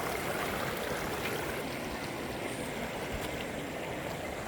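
Steady rushing of falling water at a waterfall.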